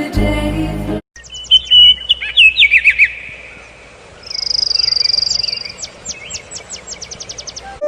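Music for about a second, then a sharp cut to a songbird singing: clear whistled notes and quick down-slurs, then a long high trill, then a fast run of short down-slurred notes.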